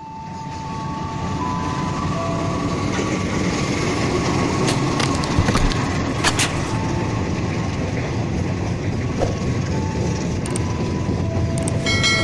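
Passenger train hauled by a GE U18C diesel locomotive running past: a steady rumble of the engine and steel wheels on the rails, with sharp clicks as the wheels cross rail joints.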